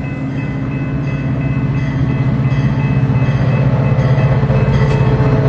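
Metra F40PH-3 diesel locomotive approaching, its EMD 16-cylinder two-stroke engine giving a low pulsing rumble that grows steadily louder.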